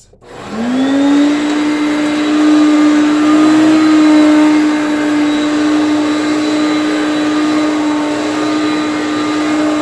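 Hoover Concept One upright vacuum cleaner switched on, its motor spinning up over about a second with a rising whine and then running steadily with an even hum and rush of air.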